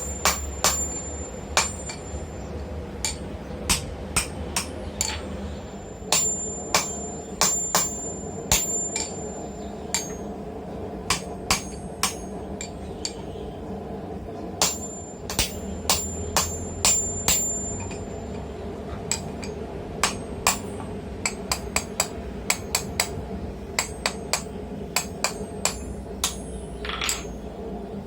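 Hammer blows on hot steel at the anvil, upsetting the end of a 14 mm rod to thicken it: runs of sharp strikes with short pauses between them, some leaving a high metallic ring. A steady low hum runs underneath.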